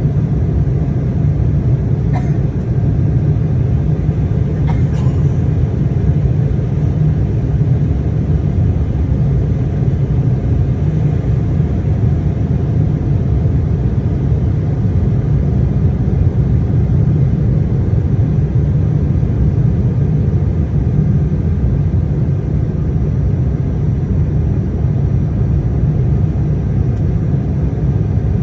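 Embraer E175 airliner's GE CF34 turbofan engines and airflow during takeoff: a loud, steady low rumble that holds its level without rising or falling. Two faint ticks sound a few seconds in, and a faint thin high whine comes in past the middle.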